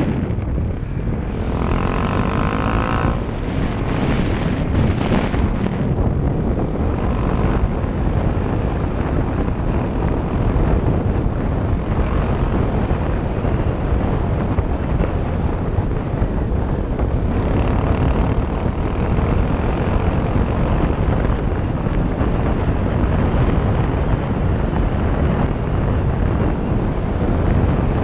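Motorcycle engine running steadily while riding along a dirt track, with wind rumbling on the microphone.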